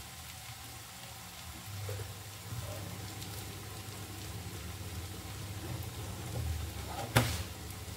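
Spiced onion-tomato masala sizzling faintly in oil in a steel kadai, with one sharp knock about seven seconds in.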